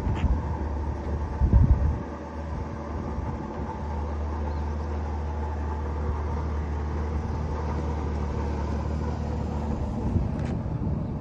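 1984 Ford F-150's engine running steadily at a constant pitch, with a brief louder bump about a second and a half in.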